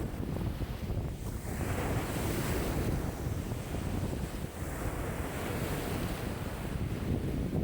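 Wind-driven lake waves washing in a wind of about 5 m/s, two swells of water hiss rising and falling over a steady low wind rumble on the microphone.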